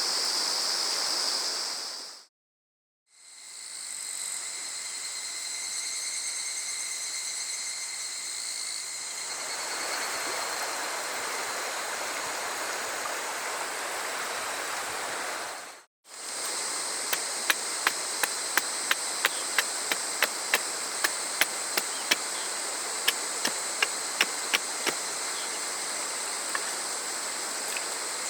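A river stream running steadily, with high, steady insect song over it. It breaks off twice for a moment, and in the last part a run of sharp taps, about two a second, comes in over the water and insects.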